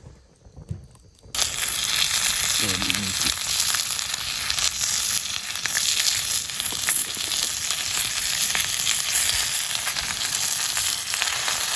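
Spicy chicken starting to fry, bursting into a loud, steady sizzle about a second in as it meets the hot cooking surface, with fat crackling and spitting throughout.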